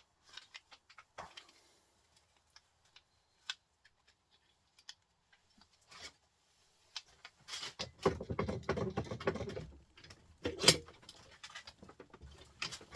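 Scattered clicks and taps of small metal printer parts and tools being handled, then a few seconds of rattling and scraping about eight seconds in, with a sharp clink shortly after.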